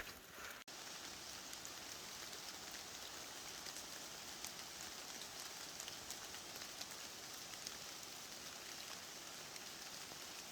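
Steady light rain falling: a faint, even hiss with scattered small drop ticks.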